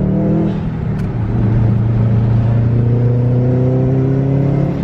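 Subaru WRX turbocharged flat-four engine pulling under acceleration, heard from inside the cabin: its note climbs steadily, breaking off about half a second in and again at the end for gear changes. It runs smoothly, without the sputtering the owner has been chasing.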